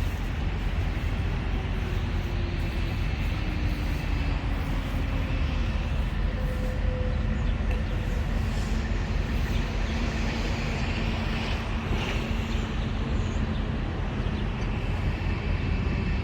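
Steady low rumble of vehicle engines and road traffic, with a faint engine tone sliding down in pitch over the first few seconds.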